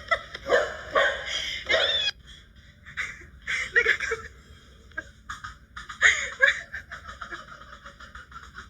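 A person laughing in short bursts, loudest in the first two seconds, with further bursts of laughter a few seconds later.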